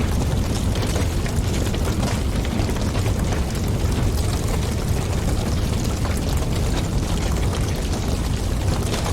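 Wood fire crackling with frequent small pops over a steady low rumble.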